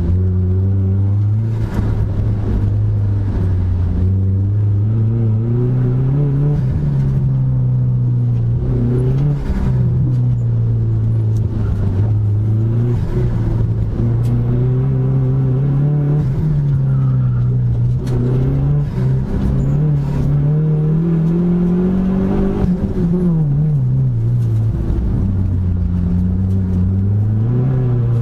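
Dodge Neon SRT-4's turbocharged 2.4-litre four-cylinder engine run hard through an autocross course. Its pitch rises and falls over and over as the car accelerates and slows, with one longer climb ending in a sharp drop about three quarters of the way through.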